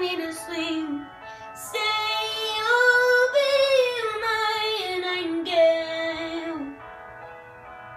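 A young girl singing long held notes with a wavering vibrato and no clear words, the melody sliding downward; the singing stops near the end.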